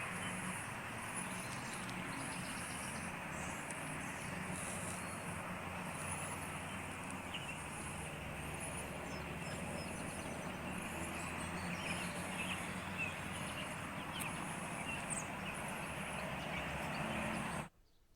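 Steady outdoor background noise, with faint high chirps over it and a low hum underneath; it cuts off abruptly near the end.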